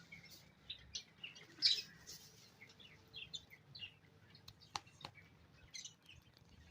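Small pet birds chirping: many short, high chirps overlapping, the loudest just under two seconds in, with two sharp clicks about five seconds in.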